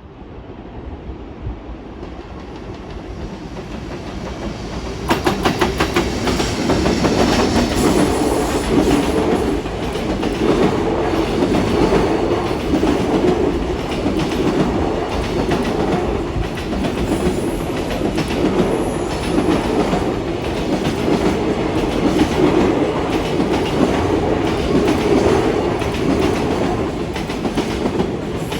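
A long freight train passing close by. It comes up over the first few seconds, then runs past steadily for more than twenty seconds, its wheels clicking over the rail joints.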